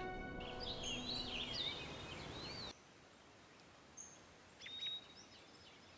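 Small birds chirping in short, quick rising and falling calls over a low background hiss. The hiss cuts off abruptly a little before halfway, leaving near silence with a few faint chirps.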